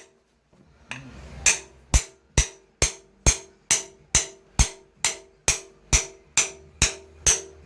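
Steady hammer blows, about two a second, each with a short metallic ring, starting about a second and a half in. They drive bread into the crankshaft's pilot-bearing bore on a Ford 5.0-litre V8, so that the packed bread forces the worn pilot bearing out.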